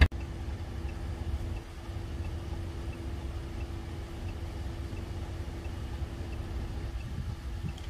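Vehicle engine idling, heard as a steady low rumble with a constant hum, under a faint high ticking that repeats about twice a second. A sharp click comes right at the start.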